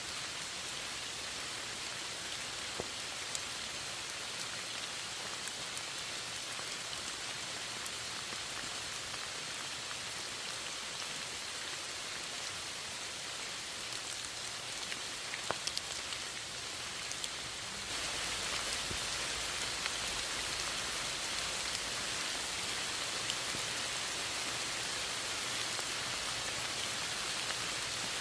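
Steady rain falling, with scattered sharp ticks of single drops. About two-thirds of the way through it steps up to a slightly louder, fuller rain.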